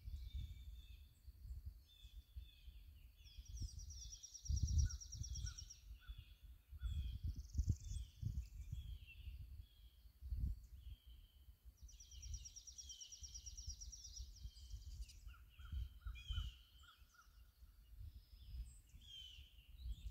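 Several wild songbirds calling and singing in spring woodland, with many short chirps and two rapid, high trilled songs about four and twelve seconds in. A low rumble comes and goes underneath.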